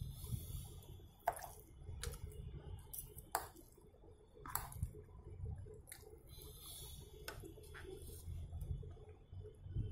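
Close-up chewing with wet mouth sounds, and a metal fork and knife clicking against a plate, about half a dozen sharp clicks spread through.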